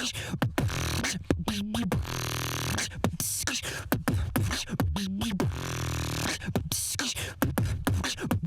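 Solo human beatboxing: a fast rhythmic pattern of vocal kick and snare sounds over a sustained low vocal bass, with a short pitched vocal note coming back about every three and a half seconds.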